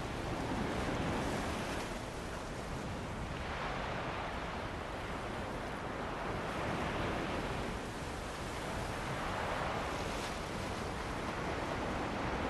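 Ocean waves washing onto a beach with wind, a steady roar of surf that swells and eases every few seconds.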